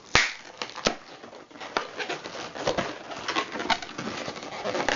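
Latex modelling balloons squeaking and rubbing as they are twisted and handled, with a sharp pop just after the start as the leftover end of a balloon is popped off, and a smaller snap a little under a second in.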